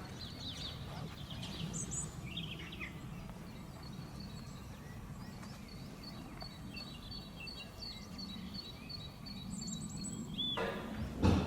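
Small birds chirping and singing, including a quick run of repeated high notes, over a steady low rumble; a louder noise rises near the end.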